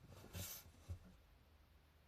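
Brief, faint rustle of paper and drawing tools being handled on a desk during analog manga work, with a soft knock just after it.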